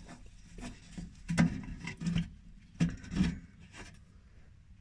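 Microwave oven waveguide cover being bent and pushed into its slot in the metal cavity wall: a series of about six short rubbing, scraping and knocking sounds.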